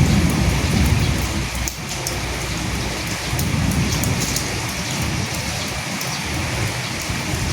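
Steady rain with individual drops ticking, and a low rumble of thunder that swells near the start and again about halfway through.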